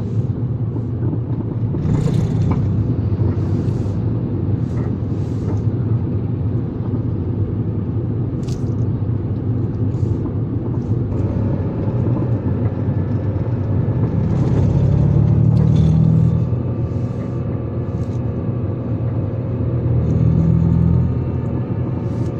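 Motor vehicle driving along: a steady low rumble of engine and road noise that swells louder twice, near the middle and near the end, with a faint steady whine joining about halfway.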